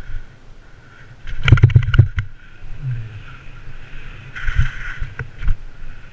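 Bicycle riding down a flight of steps: a quick run of knocks and rattles as the wheels drop step after step, followed by a few separate thumps.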